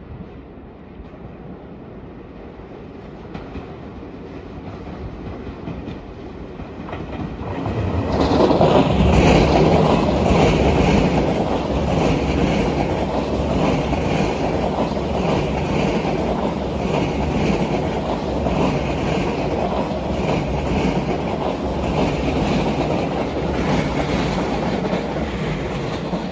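Tobu line electric train approaching and then running by on the tracks, a rising rumble that turns loud and steady. Its wheels click rhythmically over the rail joints, about once a second.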